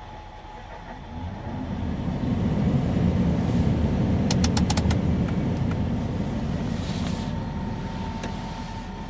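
Scania R450 truck with its 13-litre six-cylinder diesel driving past: a low engine sound builds over a couple of seconds, peaks, then slowly fades. A quick run of sharp clicks comes about four and a half seconds in.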